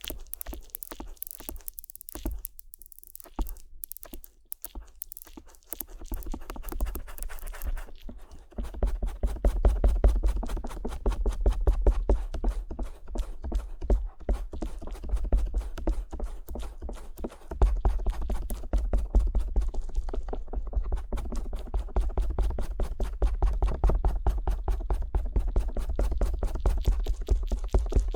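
Stainless steel ear pick scraping and rubbing over a binaural microphone's silicone ear flap, heard close up with a deep rumbling thud. It starts as sparse, light strokes, and about eight seconds in turns into fast, continuous, louder scratching strokes.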